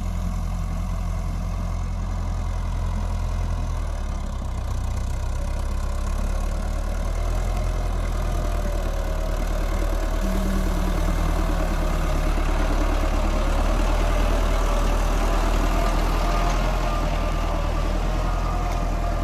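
Diesel engine of a Thaleethong TR55 four-wheel-drive tractor running steadily under load while plowing hard soil. It grows a little louder partway through, and a steady whine comes in around the middle.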